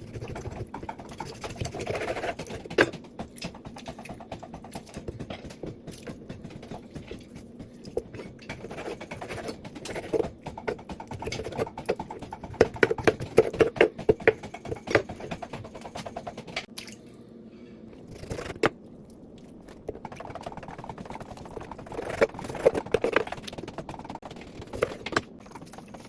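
Kitchen clatter while cooking: irregular knocks and clicks of utensils and dishes, busiest about halfway through and again near the end, over a low steady hum.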